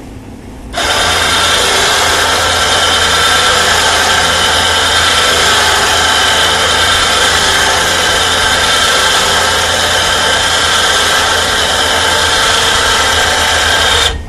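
Electric winch motor running under load, reeling in its cable to pull a truck up an incline. It starts about a second in as a steady whine and stops just before the end.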